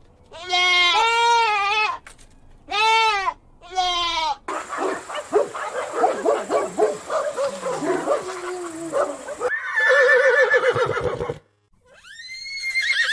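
A goat bleating three times in short calls, followed by several seconds of a dense mix of overlapping animal calls. Near the end a horse's whinny begins.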